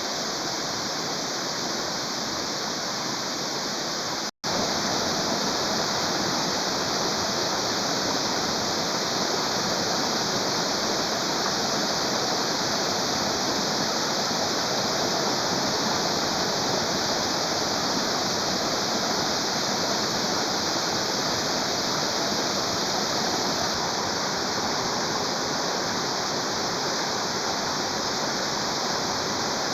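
Waterfall rushing steadily, an even hiss of falling water with a momentary break about four seconds in.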